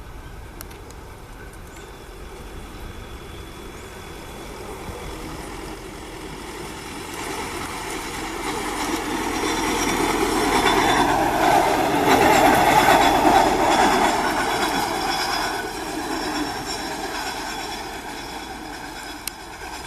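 A rail vehicle passing on the track: its running noise builds over several seconds, is loudest about twelve seconds in, then fades away.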